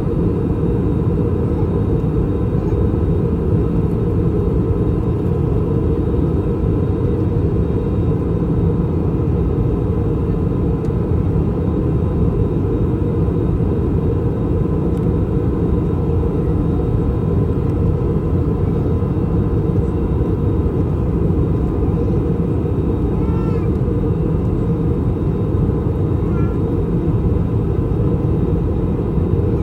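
Steady roar of an Airbus A321 cabin in descent: airflow over the fuselage and the IAE V2533 turbofans, with a few faint steady tones above the roar. Near the end, two faint brief high-pitched calls rise above it.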